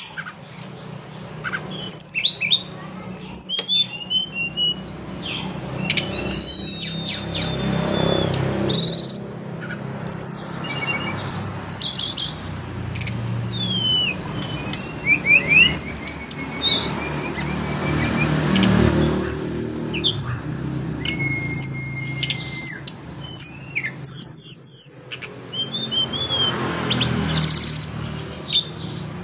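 Tledekan gunung, a blue flycatcher, singing a long run of short, varied high whistles, quick trills and sliding notes with brief gaps between phrases.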